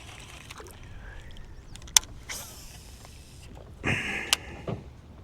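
Gear-handling noises: a sharp click, a short hiss, then a brief whir that ends in another click.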